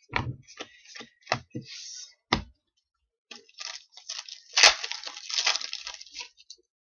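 Trading cards and their packaging being handled: several sharp clicks and taps as cards are moved and set down, then a few seconds of rustling and crinkling with one loud snap partway through.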